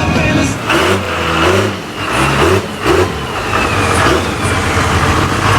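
A truck engine running close by, revving up and down so its pitch rises and falls several times.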